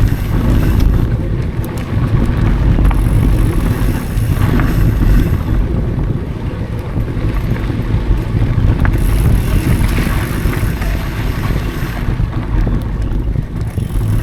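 Mountain bike riding over dry dirt singletrack: a continuous low rumble of wind buffeting the action camera's microphone and tyres rolling on the trail, with scattered small clicks and rattles from the bike.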